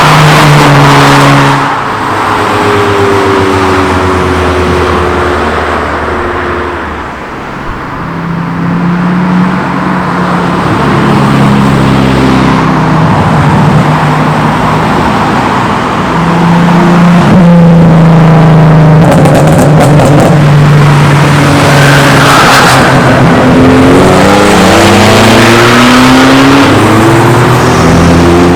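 Modified tuner cars leaving one after another, their engines revving loudly as they pull away and drive past. Near the end one engine note rises as a car accelerates hard.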